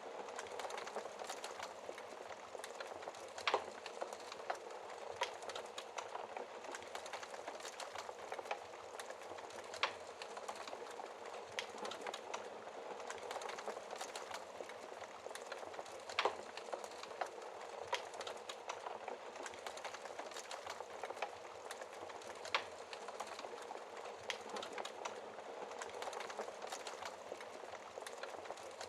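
Wood fire crackling steadily over a soft hiss of burning, with frequent small pops and a few sharper snaps.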